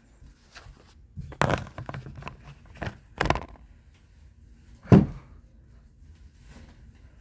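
A few dull thuds or knocks in a small room: one about a second and a half in, another a little past three seconds, and the loudest about five seconds in, with fainter knocks between.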